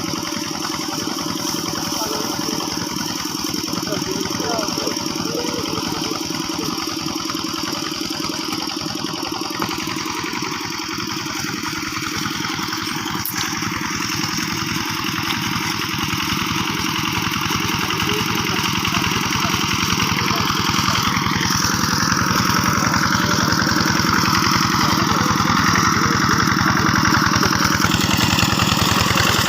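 Two-wheel hand tractor's diesel engine running steadily with a fast, even chug, growing gradually louder through the second half.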